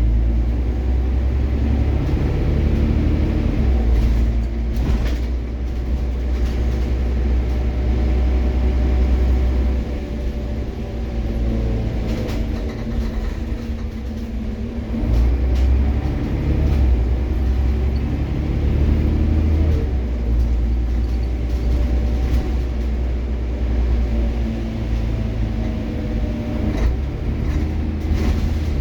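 Scania OmniCity city bus's engine and drivetrain running under a deep, steady rumble, the engine note rising and falling several times as the bus speeds up and slows down.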